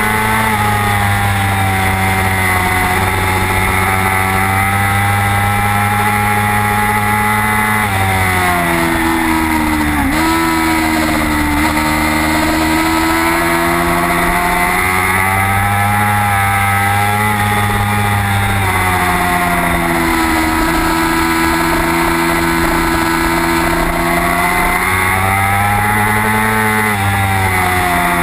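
Racing superbike's engine heard onboard at full race pace, its pitch dropping as the rider slows for corners (around 8 and 10 seconds in, again near 20 and 27) and climbing again as he gets back on the throttle, over steady wind noise.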